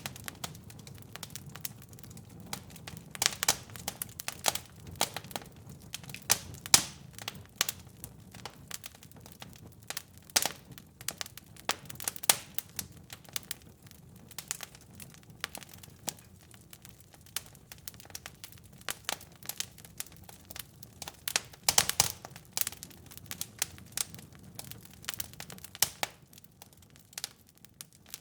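Wood fire crackling in a fireplace: irregular sharp pops and snaps over a steady low rumble of burning, with a few louder pops.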